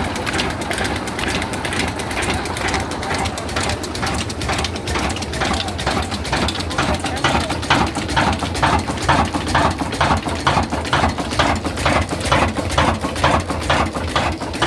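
Old diesel engine running with an even beat of firing strokes, about three a second, growing louder from about halfway through.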